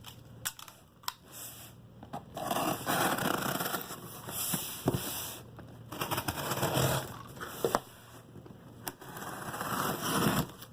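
Packaging being opened and unwrapped: repeated bursts of crinkling and scraping from wrapping and cardboard, with a few sharp clicks in between.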